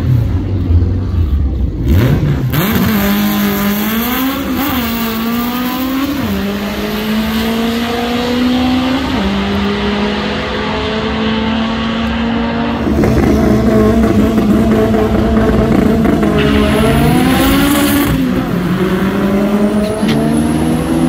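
Loud drag-car engine held at a steady high rev, with quick throttle blips that rise and fall in pitch about two, four and six seconds in and again near the end.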